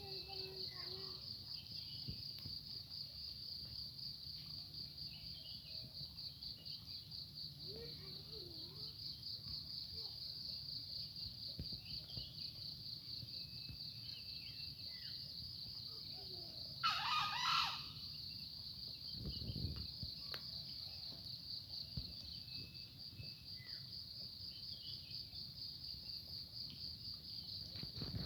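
Insects trilling steadily in a fast, even pulse, with faint scattered bird calls. About two-thirds of the way in, one loud bird call rings out for about a second.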